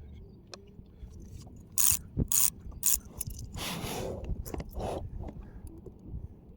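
Mechanical clicking and ratcheting: a few sharp clicks about two seconds in, then a longer rasping ratchet, then a few smaller clicks.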